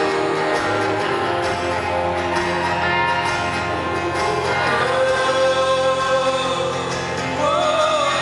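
Live song: male and female voices singing together in harmony over guitar accompaniment.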